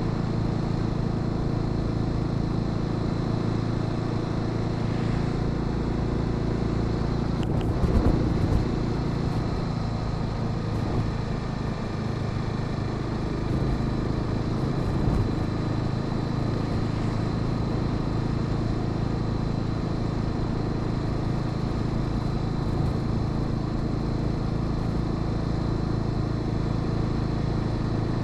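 Motorcycle engine running at a steady, unchanging speed, with a brief louder burst about eight seconds in.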